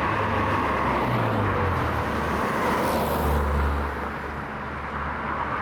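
A motor vehicle running nearby with road noise, its engine note dropping about two seconds in.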